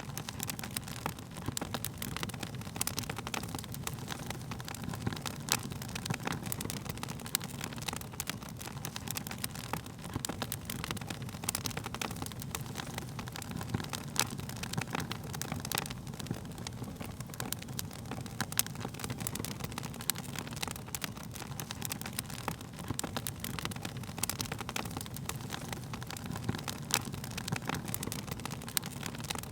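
Wood fire crackling, with frequent sharp pops and snaps over a steady low rumble of the burning.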